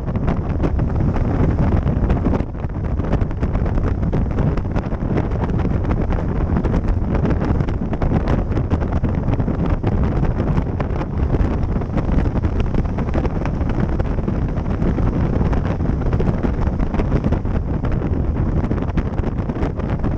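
Steady wind buffeting the microphone of a moving rider's camera, a loud low rumbling rush with no break.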